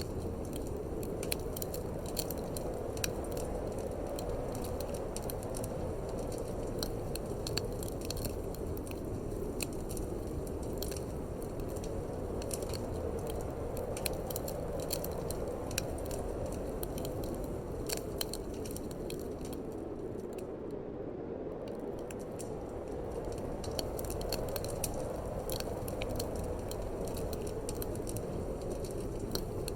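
Wood fire crackling in a fireplace, with frequent sharp pops and snaps, over a steady low rush of wind.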